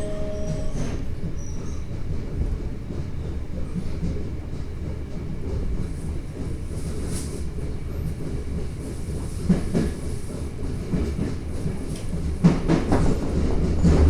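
Toei Asakusa Line 5300 series subway train running, heard from inside the car: a steady low rumble of wheels on rail. About twelve seconds in, the wheels clatter over rail joints or points.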